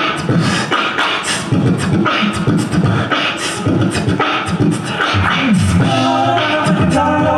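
Beatboxing: a steady vocal drum beat of repeated mouth-made hits and hissing cymbal sounds. About five seconds in, other voices come in singing held harmony notes over it as an a cappella song begins.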